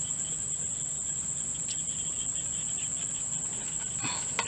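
Insects trilling in one steady high-pitched note, with a few soft clicks near the end.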